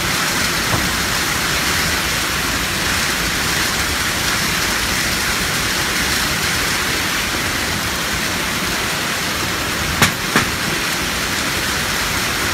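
Heavy rain pouring down steadily in a storm, with two sharp knocks about ten seconds in, less than half a second apart.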